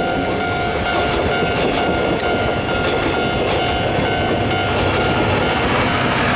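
Passenger coaches of a steam-hauled train rolling past, wheels clicking irregularly over the rail joints over a steady rumble, with a few steady ringing tones from the running gear.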